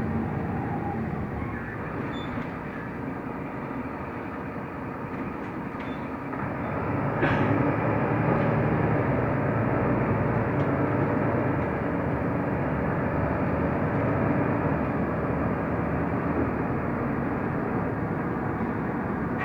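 Mercedes-Benz O345 Conecto LF city bus driving, its engine and road noise running steadily inside the passenger cabin. The rumble grows louder about seven seconds in as the bus pulls harder, with a faint click at that moment.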